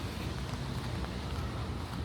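Steady rain on a city street with a low rumble of traffic, and faint footsteps on wet pavement about twice a second.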